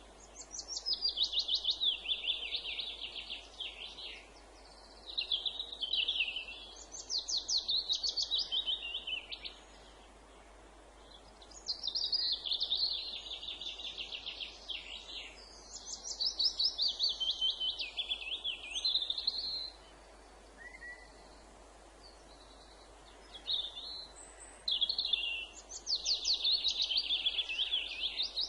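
A songbird singing a string of phrases of rapid, high repeated notes, each lasting a second to a few seconds, with short pauses between phrases, over a faint steady background hiss.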